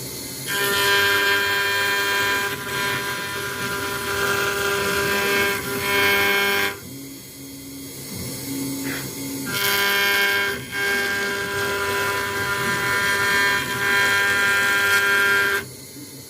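CNC router spindle machining an acrylic sheet: a steady high whine with a cutting hiss. It drops to a quieter, lower hum for a few seconds in the middle, then returns at full level.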